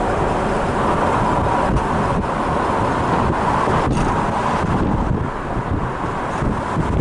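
Steady road and engine noise of a moving car, with wind buffeting the microphone.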